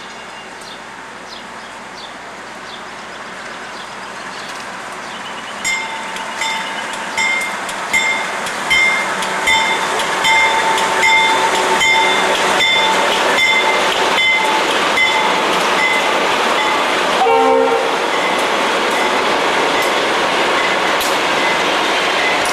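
Diesel-hauled freight train approaching and passing, growing louder over the first several seconds, then a rhythmic metallic clacking with a ringing edge, one to two strikes a second, over a steady rumble. A short blast of the locomotive horn sounds about three quarters of the way through.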